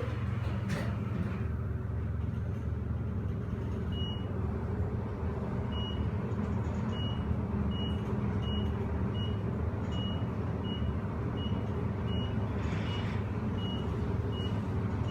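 Schindler-modernized Dover traction elevator car travelling up at speed, with a steady low rumble and hum of the ride. From about four seconds in, a short high beep repeats every half second to a second.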